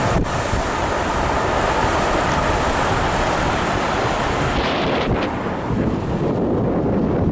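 Wind buffeting the microphone on a moving river cruise boat: a steady rumbling rush, heaviest in the low end. The higher hiss thins out a little after four and a half seconds in.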